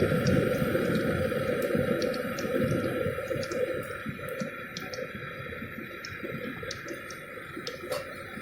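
Chicken and vegetable pakoras frying in moderately hot oil in a kadai: a dense sizzle with many small crackles and pops, gradually quietening.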